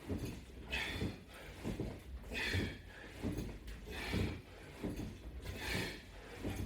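A man breathing hard in a steady rhythm through a set of sit-ups or crunches, a forceful hissing exhale about every second and a half.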